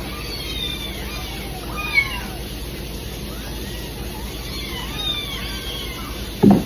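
Many cats meowing at once, overlapping high calls that rise and fall, clamouring to be fed. A short low thump near the end.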